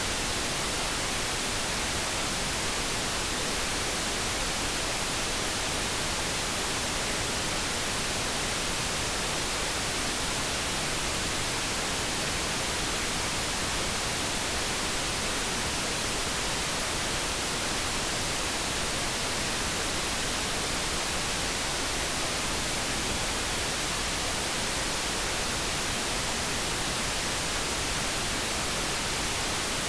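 Steady synthesized light brown noise: an even, unbroken hiss with no changes or tones.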